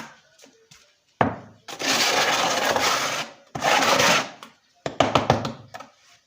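A knock, then two long scrapes and a few quick clicks and taps: a steel trowel scraping cement mortar.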